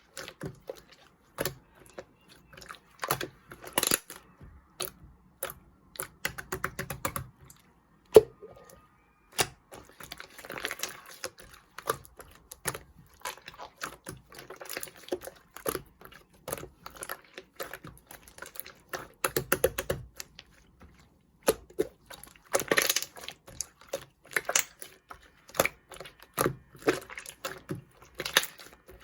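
Slime being squeezed and stretched by hand, its trapped air bubbles popping in quick, irregular clicks amid soft squishing.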